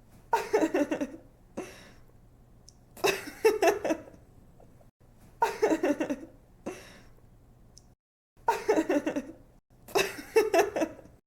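A young woman laughing in five short giggling bursts about two seconds apart, each a quick run of 'ha-ha' pulses. A faint low hum sits between the bursts.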